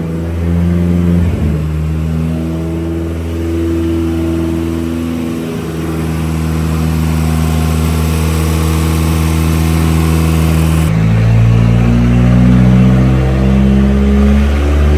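Turbocharged Nissan Hardbody truck engine running loud under load on a chassis dynamometer, holding a fairly steady pitch. About eleven seconds in, its tone changes abruptly and the high hiss drops away.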